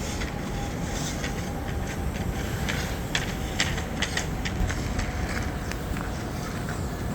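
Footsteps crunching in snow, irregular sharp crunches over a steady low rumble.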